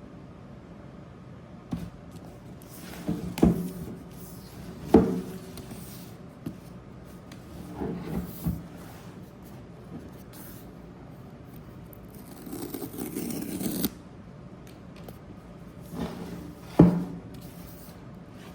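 Cardboard packaging being handled and opened: several sharp knocks and taps with rubbing and scraping in between, a scrape lasting about a second and a half past the middle, and the loudest knock near the end.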